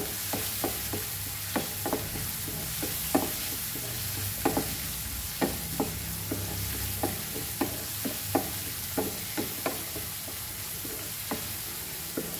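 Chopped onions and curry leaves sizzling in hot oil and ghee in a nonstick pan, with a steady hiss. A wooden spatula stirs them, knocking and scraping against the pan two or three times a second.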